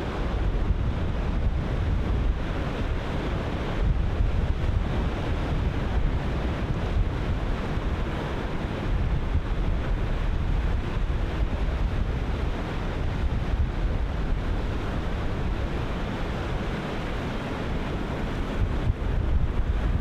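Ocean surf breaking continuously, with wind buffeting the microphone and adding a heavy low rumble.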